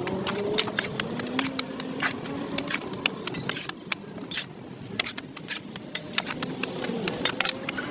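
A hand tool scraping at dirt on a sidewalk: quick, irregular scrapes and clicks, one after another.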